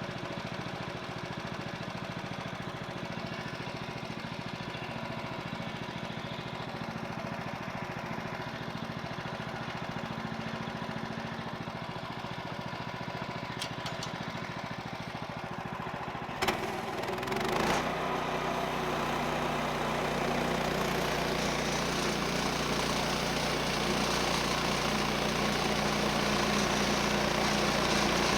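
The sawmill's 14 HP Kohler engine runs steadily at low speed. About 16 seconds in it is throttled up with a brief clatter and then runs louder and steady at high speed, driving the band blade, with a rising hiss near the end.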